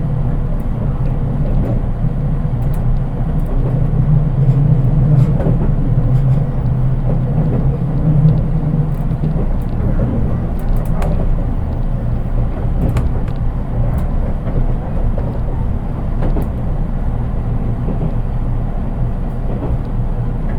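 Interior running noise of a JR East 183 series electric train, heard in its unpowered driving trailer car: a steady rumble of the wheels on the rail with scattered light clicks. A low hum grows louder from about four seconds in and eases off near the ten-second mark.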